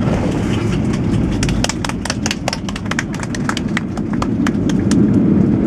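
Boeing 737-800 cabin at touchdown and landing roll: a quick irregular run of knocks and rattles as the wheels run along the runway, over a steady low rumble that grows louder near the end.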